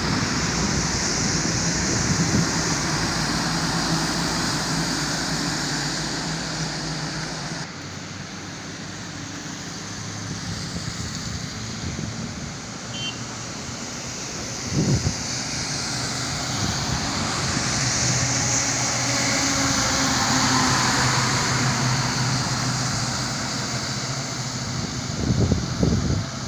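Road vehicle engine running steadily at speed, with road and wind noise. There is a sudden shift in the sound about a third of the way in, a single knock midway, and louder rumbling bursts near the end.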